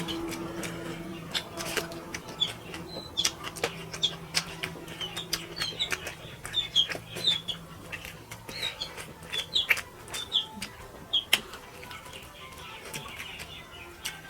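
Close-up eating sounds as a spicy fish curry and rice meal is chewed: irregular wet smacking and clicking, mixed with short, high, squeaky chirps.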